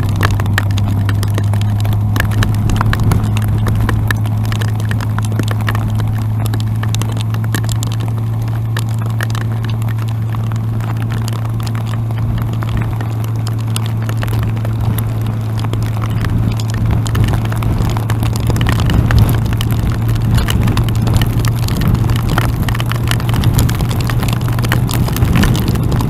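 Yamaha FJR1300 motorcycle's inline-four engine running at a steady cruise, with wind noise and frequent sharp ticks of rain striking near the microphone, the ticks busier in the second half.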